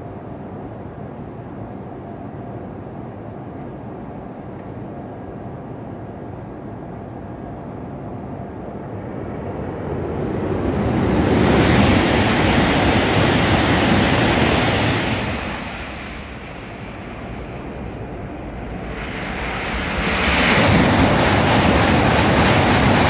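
Steady wind and background noise, then an E5 series Shinkansen passes at speed on the through track: a rushing noise swells from about nine seconds in and is loudest as the nose goes by, eases for a couple of seconds, then rises again as the rest of the train sweeps past, still loud at the end.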